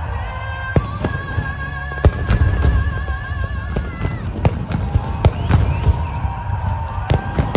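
Fireworks display: aerial shells bursting in a string of sharp bangs, a dozen or so, over a continuous low rumble.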